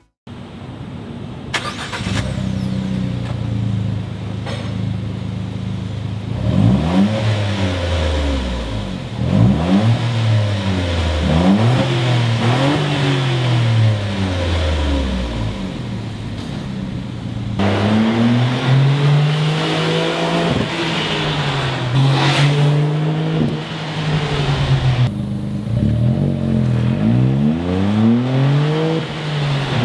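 Suzuki Jimny being driven, its engine revving up and dropping back again and again as it accelerates and shifts, with a few abrupt jumps where separate driving shots are cut together.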